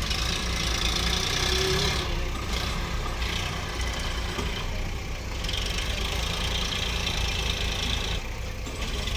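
Heavy diesel engine running steadily with a low rumble, with stretches of higher hiss that come and go three times.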